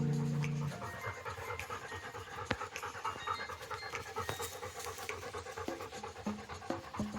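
A Labrador panting rapidly and steadily, with a single sharp click about two and a half seconds in.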